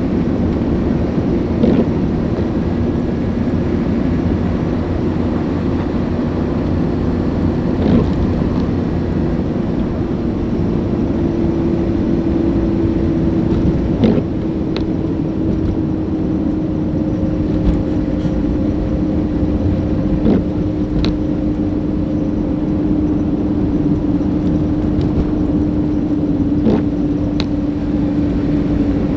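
Car on the road: steady engine and road noise, the engine's hum drifting slightly in pitch, with a short knock about every six seconds.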